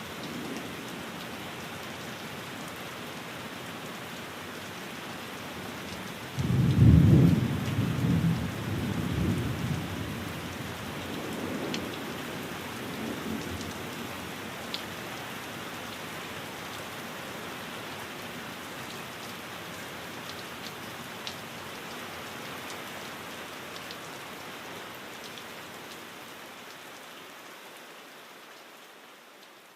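Steady rain falling on a window, with a roll of thunder about six seconds in and lighter rumbles over the next several seconds, then the sound fading out near the end.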